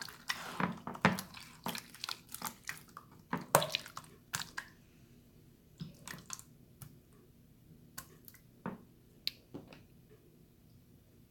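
Watery slime being squished and worked, making wet sticky clicks, pops and drips: a busy run in the first few seconds, thinning to scattered pops after that.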